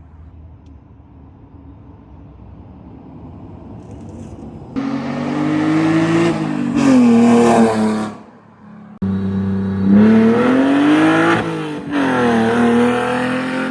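Car engine idling low, then revved hard about five seconds in, its pitch climbing and falling back. It drops away briefly and is revved again for the rest.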